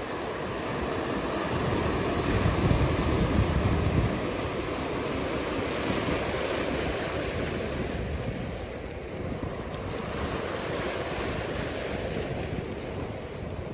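Ocean surf: waves breaking and washing in, with wind noise over the microphone. A surge peaks in the first few seconds and eases off about two-thirds of the way through.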